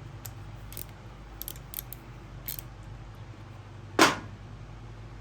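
A few light clicks of handling, then one loud, sharp snap about four seconds in, over a low steady hum.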